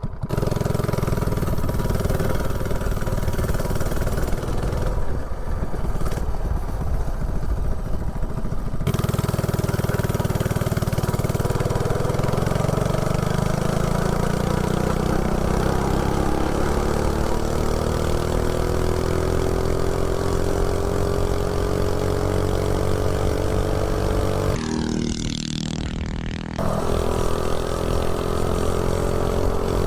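Coleman CC100X mini bike's 79cc LCT snowblower engine running hard under load as it is ridden, hot, with J-B Weld sealing the head in place of a head gasket. The pitch climbs slowly as the bike gains speed. About 25 seconds in the throttle is briefly let off and the engine note drops, then it pulls again.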